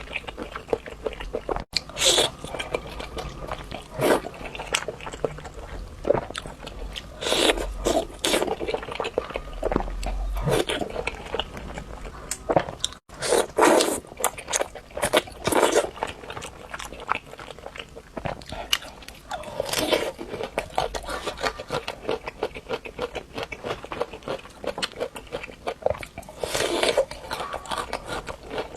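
Close-miked eating: a person biting and chewing food, a steady run of small wet clicks with louder bites every few seconds.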